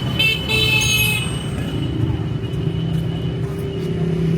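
A motor-vehicle engine runs steadily, its pitch rising slightly in the second half. A brief high-pitched tone, about a second long, sounds near the start.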